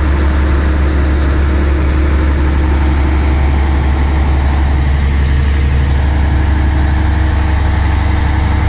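Concrete pump truck's diesel engine running steadily with a deep hum at raised revs, powering the hydraulics while the pump's boom is being unfolded.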